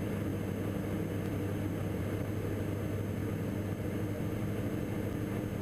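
Steady drone of the Diamond DA42 NG's twin turbo-diesel engines in flight, heard from inside the cockpit, a constant low hum with fainter overtones.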